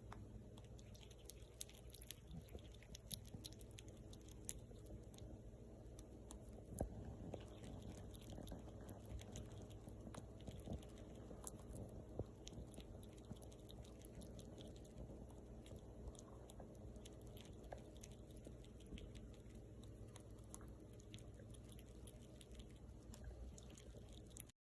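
An animal chewing: faint, irregular small clicks and crunches over a low steady hum.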